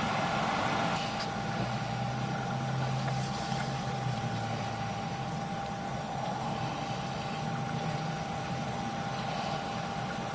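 Steady low mechanical hum with a thin, constant tone above it, unchanging throughout, with no distinct knocks or clicks.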